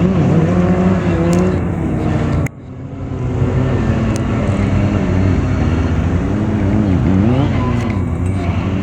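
Stunt motorcycle engines running and revving, the pitch rising and falling as the throttle is worked. The sound cuts out abruptly about two and a half seconds in and fades back up.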